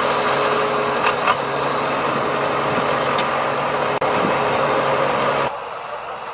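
Heavy diesel machinery engine running steadily, with two sharp knocks about a second in; the sound drops abruptly to a quieter engine noise near the end.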